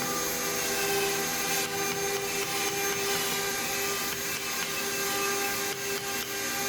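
A small power tool, such as a rotary carving tool, running steadily at an even speed.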